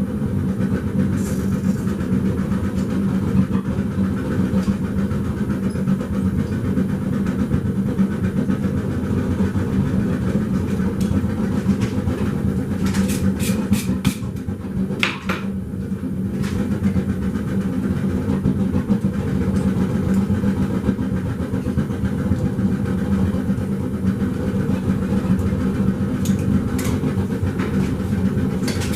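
Forge running with a steady, loud rush. A few sharp clicks come about halfway through and again near the end.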